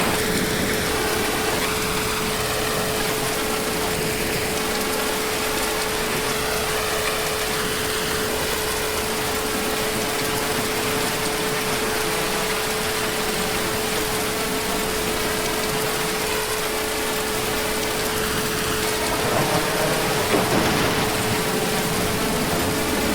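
Heavy rain falling in a steady, even hiss, a little louder for a couple of seconds near the end, with a faint steady tone running underneath.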